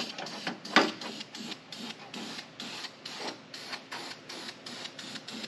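Aerosol spray can of primer spraying in short bursts, about three a second, the strongest near the start.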